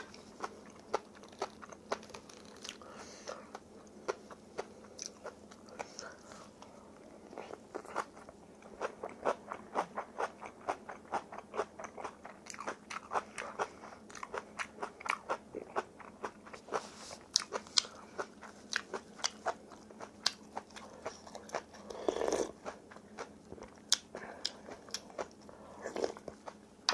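Close-miked chewing of crunchy food: a steady run of crisp, wet crunches, about three to four a second.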